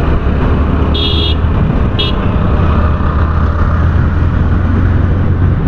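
Motorcycle engine running steadily under road and wind noise while riding in traffic, with two short high-pitched horn beeps about one and two seconds in.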